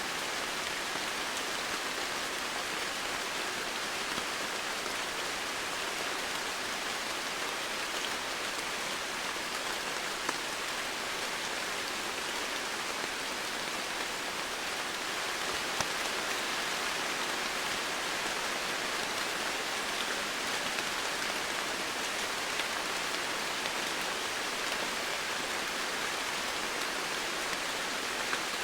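Steady rain falling, an even hiss of many drops with occasional single drops ticking out a little louder.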